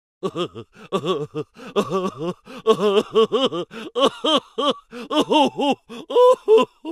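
Comic vocal sound effect: a rapid run of short, high babbling syllables, each swooping up and then down in pitch, about three a second.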